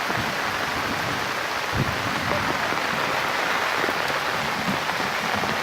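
Steady heavy rain falling, an even hiss of many drops with occasional louder drips.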